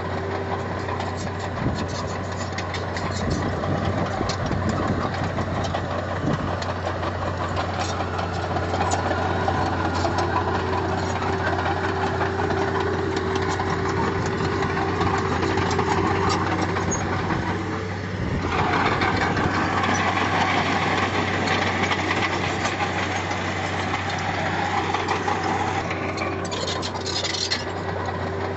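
Diesel engine of heavy earthmoving machinery running steadily, easing off briefly about two-thirds of the way through and then picking up again.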